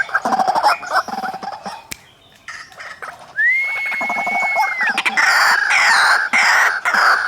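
White-breasted waterhens, male and female, calling in loud, harsh, rapidly repeated croaks. The calls drop away briefly before two seconds in, a single long steady whistle comes in the middle, and the croaking starts up again just after.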